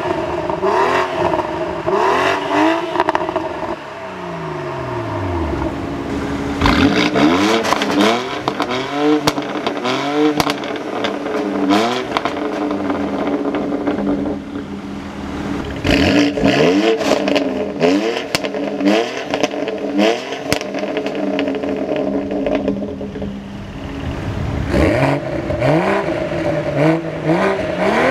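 Turbocharged inline-six engines of a BMW X3 M40i (B58) and a BMW X3 M (S58), revved in turn while parked. Bursts of quick throttle blips that rise and fall in pitch, one long fall as the revs drop, and sharp pops from the exhausts between blips.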